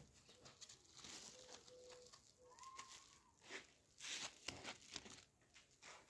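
Near silence: faint rustling and a few soft clicks, with a couple of faint short tones in the first half.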